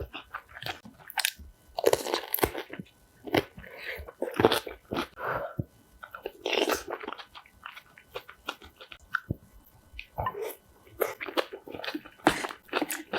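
Crunchy biting and chewing of spicy kimchi close to the microphone, in irregular bursts of crunches.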